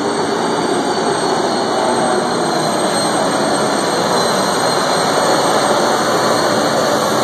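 Competition pulling vehicle's engine running at full throttle, a loud steady sound.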